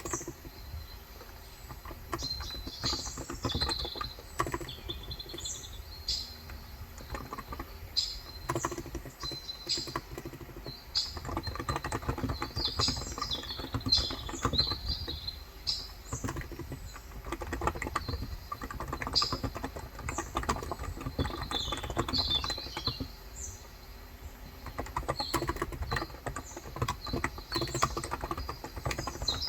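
Steady typing on a COX Endeavor tenkeyless electrocapacitive keyboard with light 35 g switches, a dense run of soft key strikes. Small birds chirp in short bursts throughout.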